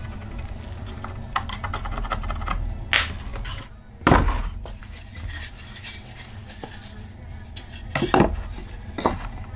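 Irregular clinks and knocks of hand tools and pallet wood being handled, with a few sharp knocks standing out, over a steady low hum.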